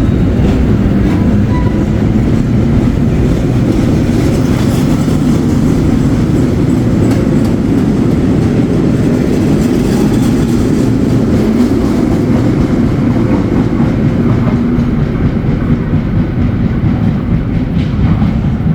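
A passenger train running along the rails: a steady loud rumble with faint scattered clicks from the wheels.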